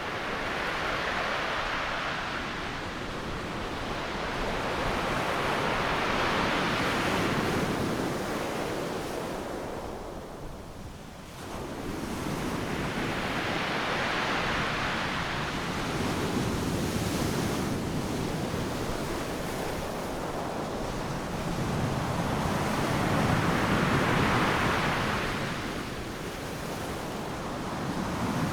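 Ocean surf breaking on a sandy beach: a continuous wash of waves that swells and eases in slow surges several seconds apart, with a brief lull about eleven seconds in.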